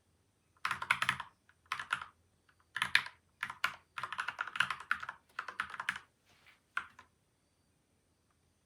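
Typing on a PCL87 mechanical keyboard with lubed Gateron milky white and Outemu yellow linear switches, damped with tape and foam mods. The keys are struck in quick runs with short pauses between, and the typing stops about seven seconds in.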